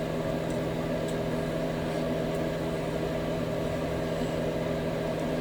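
A steady, constant-pitched hum of a small electric motor, with a few faint clicks.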